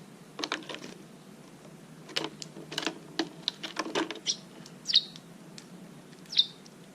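A small bird chirping twice, short high calls, among a scatter of sharp clicks and taps.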